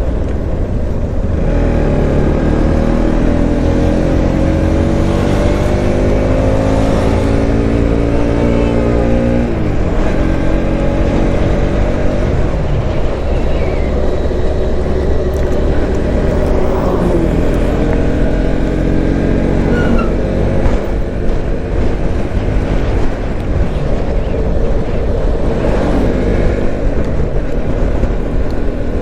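Bajaj Pulsar NS motorcycle engine heard from the rider's seat, its pitch climbing steadily for several seconds as it accelerates, dropping about nine seconds in, then rising again twice later on. Heavy wind rush on the microphone runs under it.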